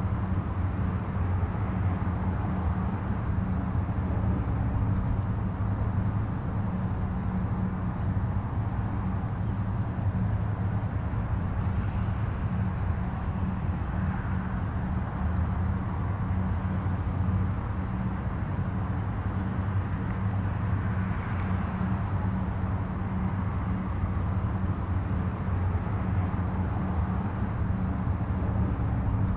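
Distant highway traffic: a steady low rumble of tyres and engines, with single vehicles now and then swelling a little louder as they pass.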